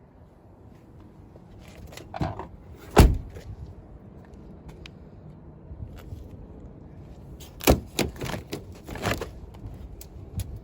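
Thumps and clunks from a car's doors being handled. One loud thud comes about three seconds in, and a quick run of clicks and knocks follows near the end.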